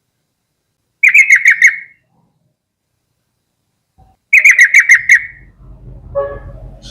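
Yellow-vented bulbul singing two short bubbling phrases of about six rapid notes each, about three seconds apart. A fainter, lower sound with a steady pitch follows the second phrase.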